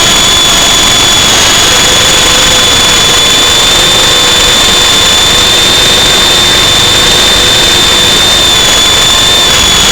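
Remote-controlled aircraft's motors running with a steady high-pitched whine, nearly unchanged in pitch, under heavy wind noise on the microphone as it flies in strong wind.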